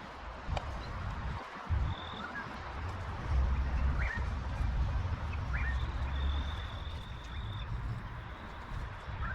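Birds chirping a few short calls over a low, uneven rumble, with a thin high note held for a second or two near the middle.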